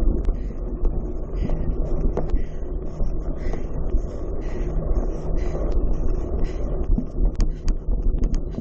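Wind buffeting the microphone with a heavy low rumble, scattered sharp clicks and rattles, and a soft sound repeating about once a second.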